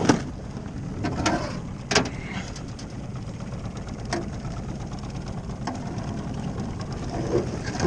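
A small fishing boat's outboard motor running steadily at low speed, with several sharp knocks and clicks over it, the loudest near the start and about two seconds in.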